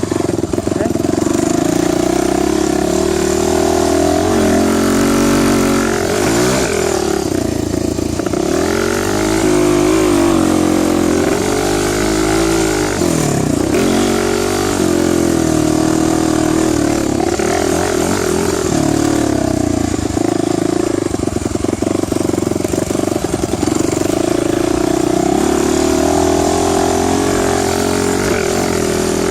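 Dirt bike engine running, its revs rising and falling again and again.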